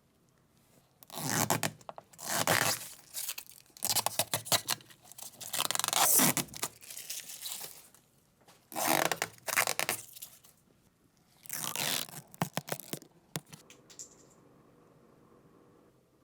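A series of rough scraping strokes, each about a second long, with a few sharp clicks among them.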